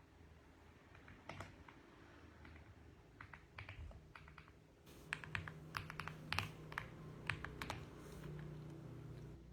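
Mechanical keyboard typing in uneven bursts: a few scattered keystrokes, then a quicker run of keystrokes from about halfway that stops shortly before the end.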